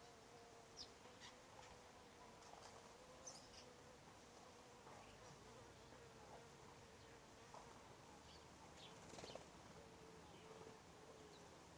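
Faint, steady buzz of a flying insect. Scattered short, high bird chirps sound softly throughout.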